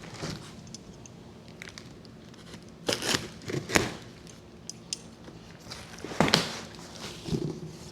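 A large cardboard shipping box and its packaging being handled and opened by hand: irregular scrapes, rustles and knocks, with louder bursts about three seconds in and again about six seconds in.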